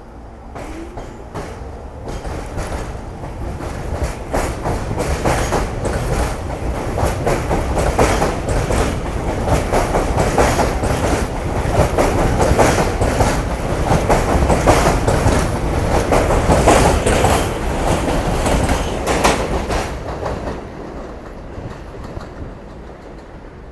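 New York City Subway F train running past on steel rails, its wheels clattering over the rail joints in a rapid run of sharp clacks over a steady rumble. It builds, is loudest around the middle, and fades near the end.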